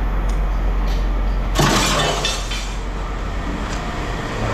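A clattering crash of scrap metal about a second and a half in, lasting about a second, over a steady low rumble.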